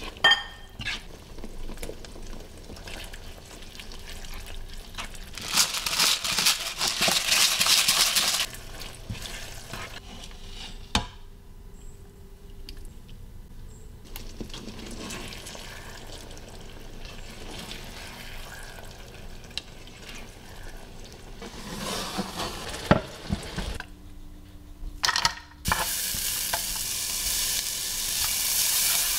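Food frying in a frying pan: a spatula stirring and scraping ground meat in sauce, with sizzling that swells loud for a few seconds and a few sharp knocks of utensils on the pan. Near the end, sliced onions sizzle loudly and steadily in hot oil.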